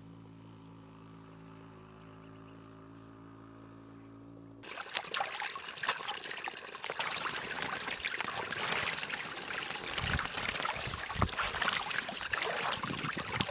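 A quiet steady hum of several held tones, cut off suddenly about four and a half seconds in by running, trickling water with many small clicks and splashes.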